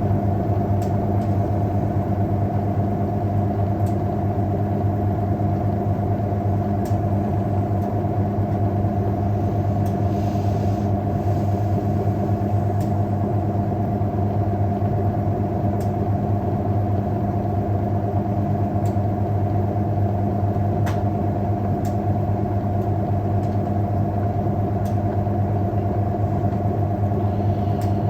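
Hoover 1400 top-loading washing machine running with a steady hum at constant speed, with a few faint clicks.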